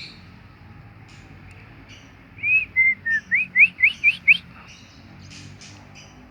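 A run of about eight clear, loud whistled notes that end in five quick rising sweeps, with faint high bird chirps behind.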